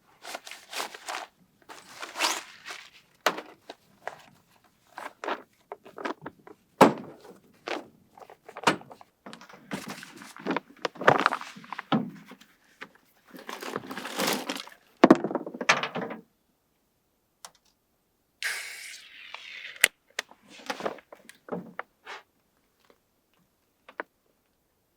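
A busy run of thunks, knocks and scrapes for about sixteen seconds, then a short rustle and a few scattered clicks.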